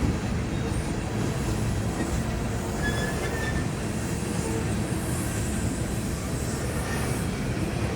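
Freight train cars rolling past: a steady rumble of steel wheels on rail, with a couple of faint, brief wheel squeals about three seconds in.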